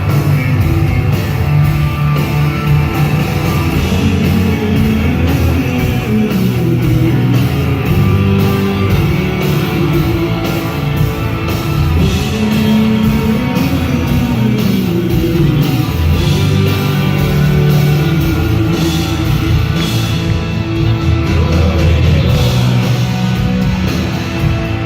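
A rock band playing live: electric guitar and drums, with a singing voice over them, loud and continuous.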